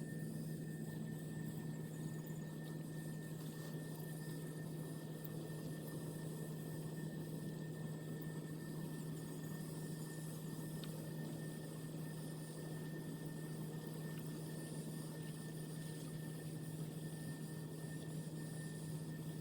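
A steady low hum with a thin high tone above it, over an even rushing noise, unchanging throughout.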